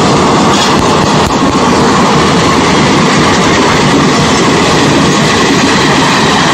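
Wheels of Indian Railways ICF passenger coaches running past at speed over the track: a loud, continuous rumble and clatter. A couple of sharp knocks come in the first second or so.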